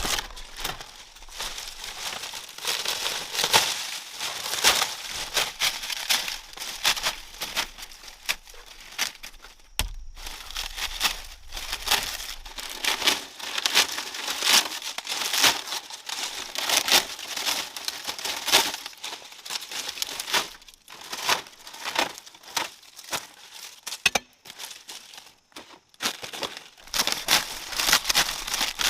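Dry plant material, such as leaves or bamboo strips, being handled and worked by hand, making dense, irregular crinkling and crackling with brief pauses.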